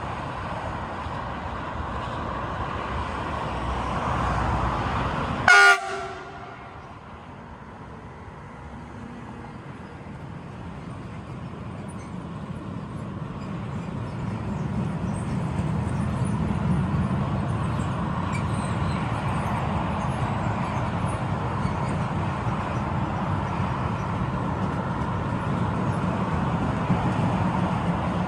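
SBB Cargo Siemens Vectron electric locomotive sounding one short, loud horn blast about five seconds in. Its freight train then passes with a steady low rumble of wagons on the rails that builds up and carries on.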